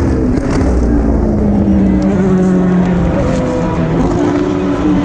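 Race car engines running hard as cars pass in close succession. One engine's pitch drops over the first couple of seconds as it slows, and others rise again as they accelerate.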